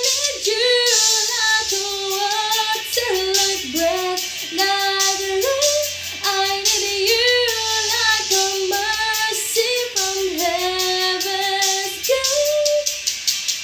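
A female voice singing a slow ballad melody over backing music, with long held notes and slides between them.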